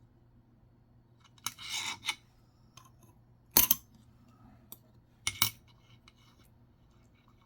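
Nickels being handled on a hard surface: a short scraping rustle about a second and a half in, then sharp metallic clicks of coins being set down, one loud click in the middle and another just past five seconds.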